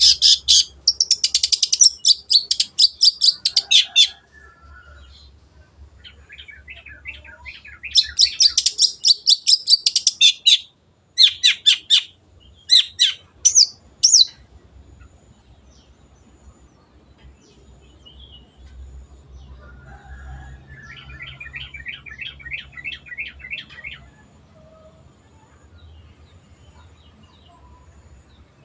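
Long-tailed shrike (cendet) singing: loud phrases of rapid, chattering high notes over the first half, then a softer, lower run of notes about three-quarters of the way through.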